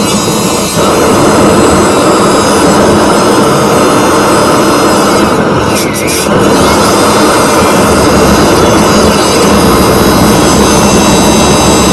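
Homemade motorjet running loudly and steadily on its first test: a small piston engine driving a compressor, with fuel burning in a combustion chamber and blowing out through the exhaust nozzle. A faint high whine rides on top, and the sound dips briefly about six seconds in.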